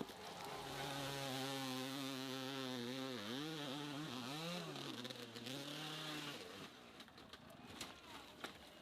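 Hill-climb motorcycle engine running hard at high revs, its pitch dropping and picking back up twice in the middle as the throttle comes off and on, then fading out about two-thirds of the way through.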